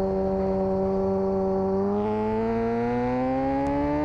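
A steady engine drone that rises slowly in pitch from about halfway through, like an engine being revved up gently.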